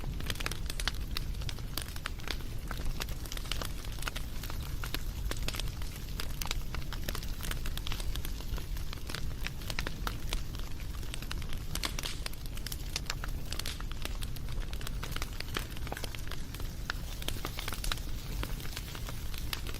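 Wood fire crackling and popping steadily, with many small irregular snaps over a low rumble of the flames.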